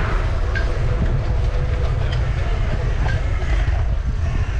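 Steady low wind rumble on the microphone of a moving bicycle, with light scattered rattles and clicks from the ride over city streets.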